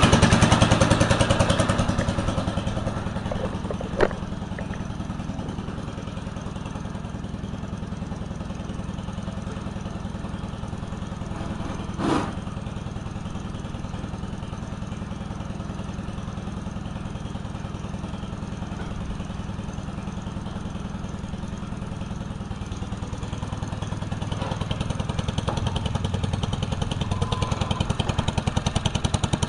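1964 Cub Cadet 70 garden tractor's engine running steadily with a fast firing pulse. It fades over the first few seconds and grows louder again near the end. Two sharp knocks stand out, about four and about twelve seconds in.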